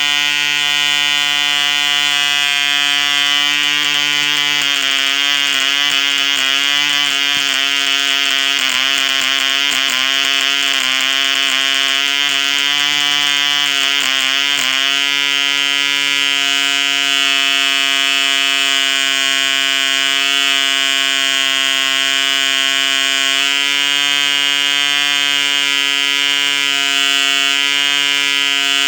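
1959 ED Mk2 1cc model-aircraft diesel engine running at high speed on an 8x4 propeller: a loud, steady, high-pitched buzz. From about 5 to 15 seconds in its pitch wavers up and down, then it settles back to a steady note.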